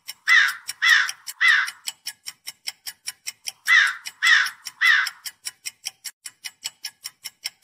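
A crow cawing: three harsh caws, a pause, then three more, over a rapid, even ticking of about five clicks a second.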